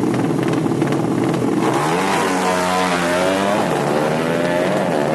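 Motorcycle engine, a 200cc bike, running loudly and being revved: steady at first, then its pitch dips and climbs back up through the middle.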